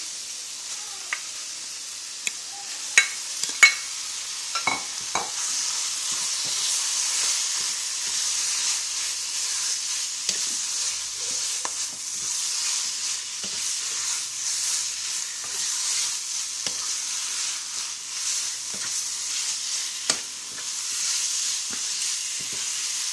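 Raw chicken pieces sizzling as they go into hot oil and red curry paste in a nonstick pan and are stirred with a plastic spatula. There are several sharp clicks of the utensil in the first five seconds. The frying sizzle grows louder from about five seconds in as the chicken is stirred through.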